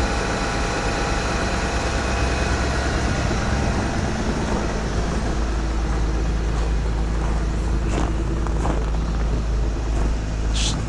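2010 Mercedes GL350 BlueTec's 3.0-litre V6 turbo-diesel idling steadily just after a cold start in deep frost. The engine has its emissions equipment deleted, and the owner suspects some of its injectors are bad.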